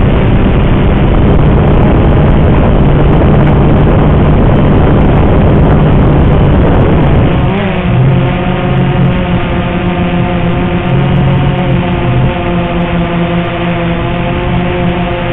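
Wind buffeting the microphone over the steady hum of a Walkera X380 quadcopter's electric motors and propellers. About halfway through, the wind noise eases and the motors' multi-pitched whine comes through clearly.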